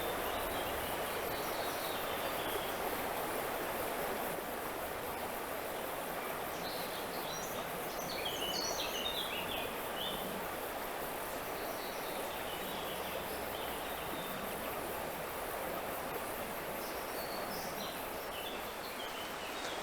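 River water rushing steadily, with a small bird singing in short, quick phrases over it, first about a third of the way in and again near the end.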